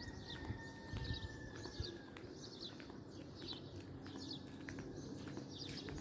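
A bird chirping over and over, a short high chirp about every half second, over a low rumbling background.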